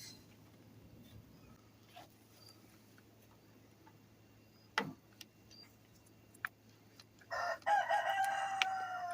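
A rooster crowing once near the end, one long call that falls slightly in pitch at its close. Before that it is mostly quiet, with a single knock about halfway through.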